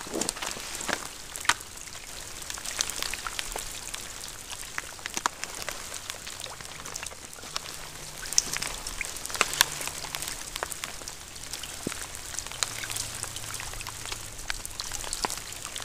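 Steady rain falling, an even hiss with many irregular sharp ticks of individual drops landing close to the microphone.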